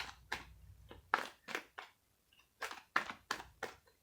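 Tarot cards being handled: a string of about a dozen irregular, sharp card clicks and taps.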